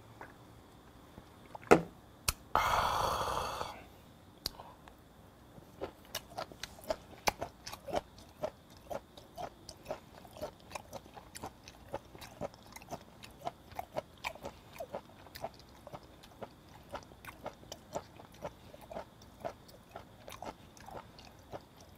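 A shot glass knocked down on the table, then a loud breathy exhale after the soju shot. Then close-miked chewing of raw flounder fin sashimi, a run of moist crunchy clicks about twice a second.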